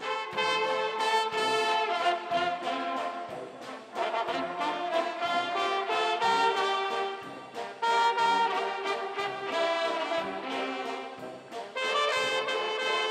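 University pep band playing an instrumental passage, brass carrying the tune over a steady beat.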